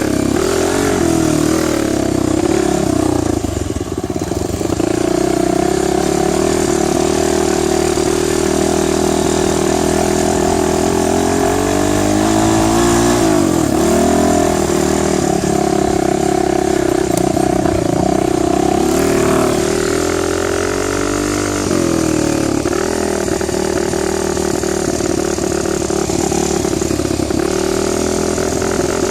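Dirt bike engine running steadily, its pitch rising and falling with the throttle, with brief drops in revs about a third of the way in and again about two thirds in.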